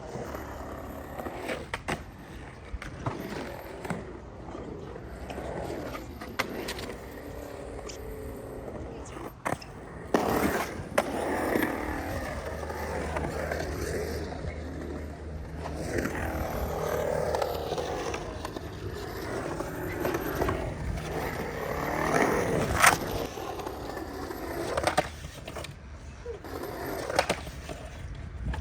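Skateboard with loosened trucks rolling and pumping around a concrete bowl: the wheel rumble swells and fades as it carves through the transitions, with a few sharp knocks, the loudest near the end.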